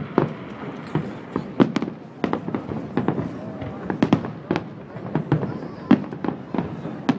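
Aerial firework shells bursting in quick, irregular succession: sharp bangs about two or three a second, some overlapping.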